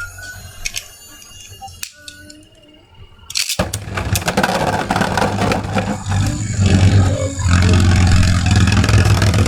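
Beyblades launched into a plastic stadium a bit over three seconds in, then spinning and grinding against each other: a loud, steady scraping whir with a low hum and many small clicking clashes. The tops are a 3D-printed Mystic Ultraus and an Imperial Dragon.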